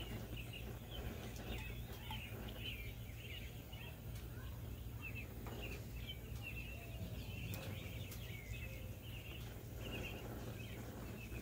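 Small birds chirping, many short high chirps scattered throughout, over a low steady rumble.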